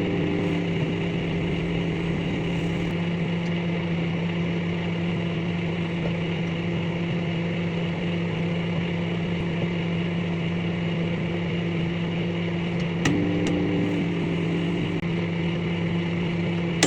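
Microwave oven running with a steady hum, with a click about thirteen seconds in.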